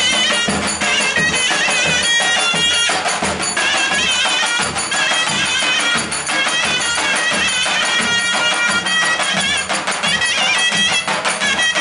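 Turkish folk wedding music: a shrill reed wind instrument plays a wavering, heavily ornamented melody over frequent drum strokes.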